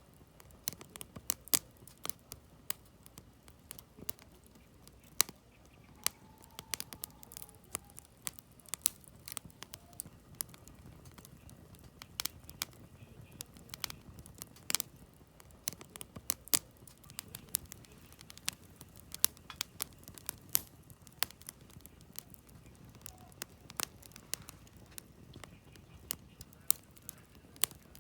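Campfire of split firewood burning: the wood crackles and pops in irregular sharp snaps, several a second, over a faint steady low rush of flame.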